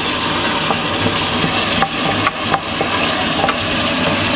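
Tomato, shallots and seasonings frying in red palm oil in a stainless steel pot, sizzling steadily while being stirred, with a few clicks of the stirring utensil against the pot around the middle.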